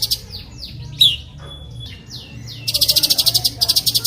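Recorded songbird song played as a masteran training track: a very fast, high rattling trill, then a run of quick down-slurred whistles and a short level tone. The fast high trill starts again nearly three seconds in.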